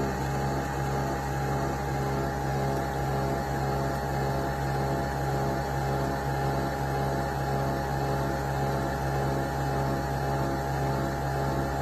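Nespresso Vertuo Next coffee machine brewing: a steady motor whir and hum with constant tones.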